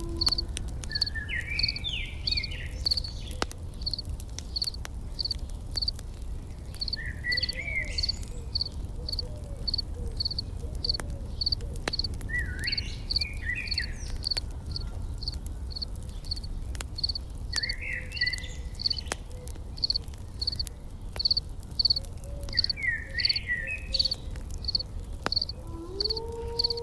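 Insect chirping in an even rhythm of about two chirps a second, with a short bird song phrase about every five seconds. Faint scattered clicks and a low rumble sit under it, in keeping with a crackling campfire.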